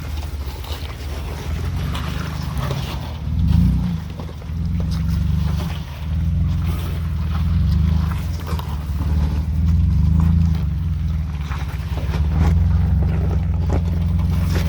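Jeep engine running at low revs in low-range gear, the throttle swelling and easing every few seconds as it crawls over rocks, with the strongest push about three and a half seconds in. Faint scattered ticks sound over the engine.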